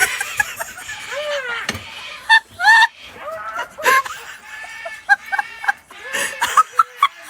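Parrot squawking in a series of loud, sharp calls, mixed with people laughing.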